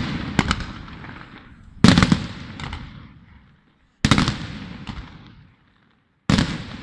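Firework shells bursting in the sky: three loud bangs about two seconds apart, each echoing and dying away, with smaller cracks between them.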